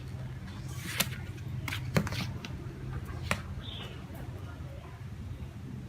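Cardboard box and packaging being handled while unboxing a cut-off saw: rustling with three sharp knocks, about one, two and three seconds in, over a steady low hum.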